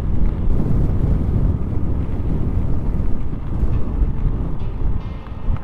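Wind buffeting the microphone of a moving e-bike: a loud, unpitched low rumble that eases a little in the second half.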